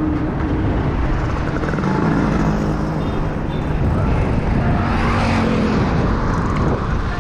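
Motorcycle riding along a road: the engine running steadily under a rush of wind and road noise.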